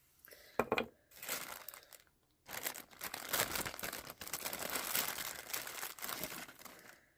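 Packaging being crinkled by hand: a few short rustles in the first two seconds, then steady crinkling for about four and a half seconds.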